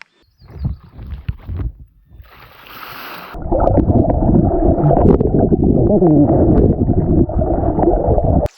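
GoPro camera in a ziploc bag taken underwater in a lake: a few knocks from handling and a short splash, then loud, muffled underwater sloshing and gurgling that cuts off suddenly near the end. Water has already leaked into the bag.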